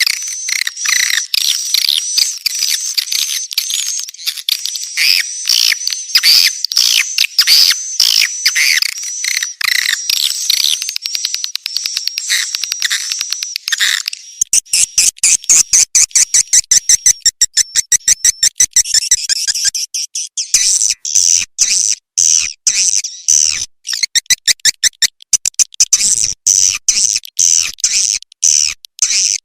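Swiftlet lure call, a recording played to draw swiftlets to a nesting house: a fast, dense stream of high, downward-sweeping chirps. About halfway through it changes to rapid, dry clicking trills.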